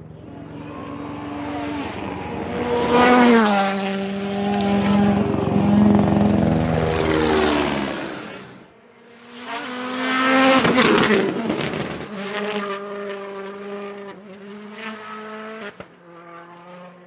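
WRC Plus rally car's turbocharged four-cylinder engine at full throttle, coming up loud with its note falling as it passes. It lifts briefly, then pulls away hard again through the gears and fades into the distance.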